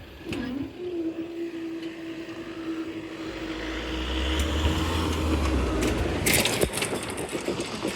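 A vehicle passing close by: its noise builds over a few seconds to a low rumble, under a steady held tone, and ends in a few sharp clicks.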